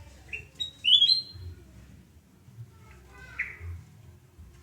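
Kutilang emas (a bulbul) singing a short phrase of clear, rising whistled notes about a second in, then one harsher call about three seconds in.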